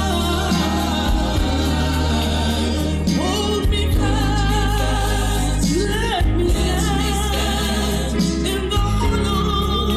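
Gospel song with choir singing over a full band, with a steady bass.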